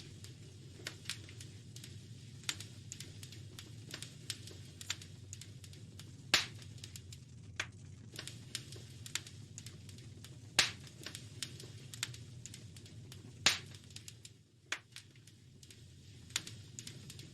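Wood fire crackling in a fireplace: irregular small snaps and pops over a steady low rumble. Three louder pops stand out, about a third of the way in, just past halfway and about three quarters through.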